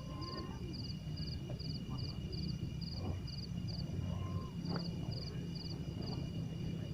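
Night insects chirping: short groups of rapid high pulses repeating about twice a second over steady high trills, with a low rumble underneath.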